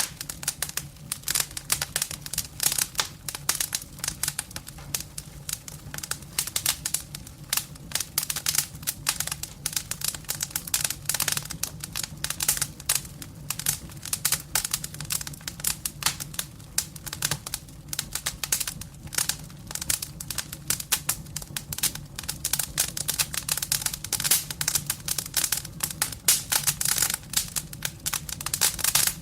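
Firewood burning in a fireplace, crackling and popping in a dense, irregular run of sharp snaps over a low steady hum.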